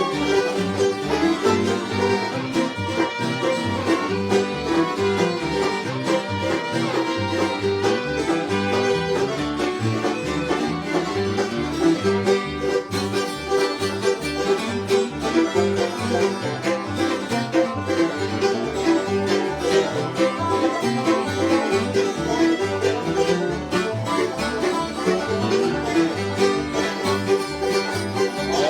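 Bluegrass band playing a fast instrumental: banjo and guitar picking under a fiddle.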